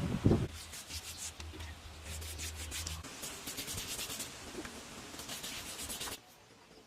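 Repeated rubbing or scraping strokes against a surface, stopping abruptly about six seconds in.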